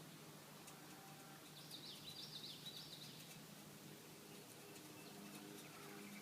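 Faint bird chirping: a short run of quick high notes about two seconds in, lasting a second or so.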